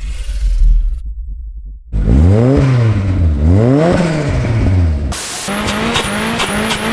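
Nissan Silvia S15's engine revved twice, climbing and falling in pitch each time. From about five seconds in it runs hard at high revs with a quick repeating pulse, while the car drifts.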